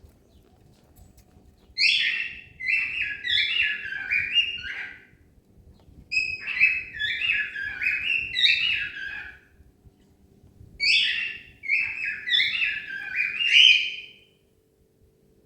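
A cockatiel singing: three whistled phrases, each a run of quick notes that step down and up in pitch, with pauses of about a second between them.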